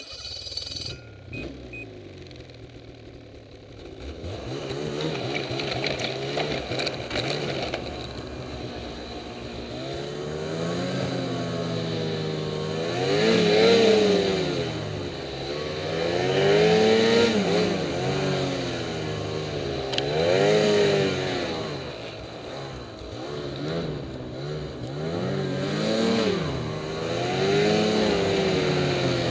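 Ski-Doo MXZ Renegade 800 snowmobile's two-stroke twin engine, quiet for the first few seconds, then throttled up and down over and over, its pitch rising and falling in a series of swells.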